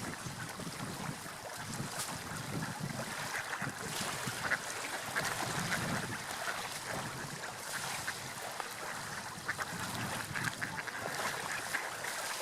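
Seagulls calling repeatedly over the steady wash of sea waves.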